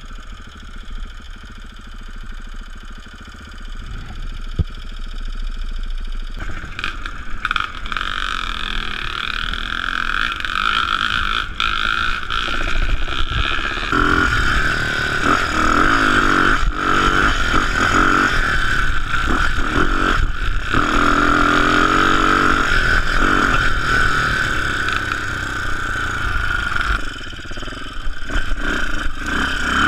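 Off-road motorcycle engine running under the rider, quiet at first, then louder from about six seconds in as it pulls along the track, its pitch rising and falling with the throttle.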